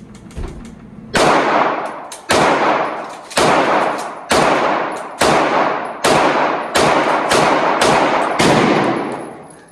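About ten shots from a Glock 43X 9mm pistol, fired at a steady pace of roughly one a second, starting about a second in. Each shot is followed by a long echo.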